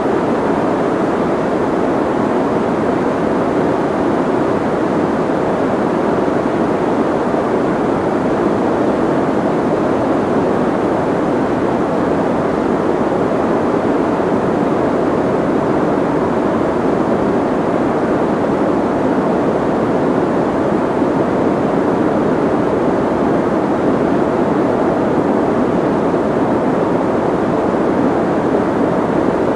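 Soft white noise: a steady, even hiss, muffled rather than bright, with little high treble, unchanging throughout.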